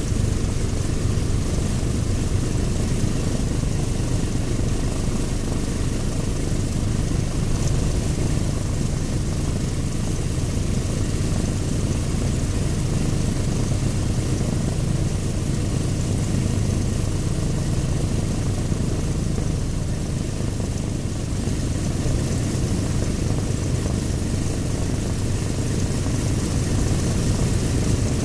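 Douglas A-26B Invader's right-hand Pratt & Whitney R-2800 radial piston engine running steadily with its propeller turning during a ground run, on all cylinders.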